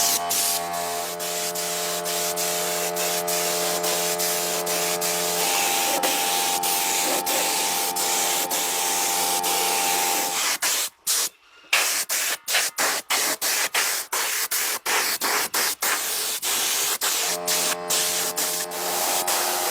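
Background music of sustained chords over a steady spraying hiss. Both drop out for a moment about 11 seconds in, after which the hiss comes in short, choppy cuts.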